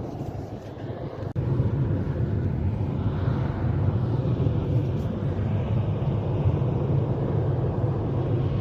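A steady, loud low rumble, starting abruptly about a second in and running on without a break.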